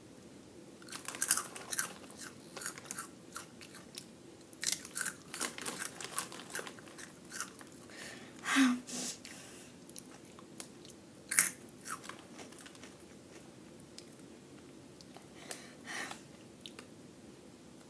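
Flamin' Hot Cheetos being crunched and chewed in the mouth: irregular crisp crunches, thick for the first twelve seconds or so, then thinning out to a few.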